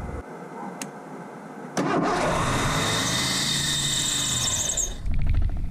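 A 1984 Ford LTD Crown Victoria's carbureted 302 V8 starts suddenly about two seconds in and runs fast at a high idle, its throttle linkage held by hand to keep the revs down. It gets louder briefly near the end. The owner puts the high revs down to too much fuel.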